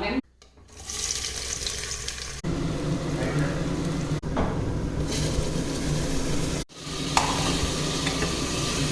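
Food frying in hot oil in a pot, a steady sizzle with a spoon stirring. It breaks off briefly twice.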